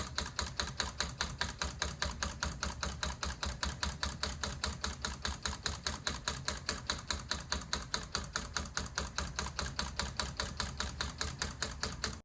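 Homemade solenoid engine running: four solenoids driving steel pins in a plastic tube against a connecting rod and flywheel, giving a fast, even rhythm of sharp clicks, several a second.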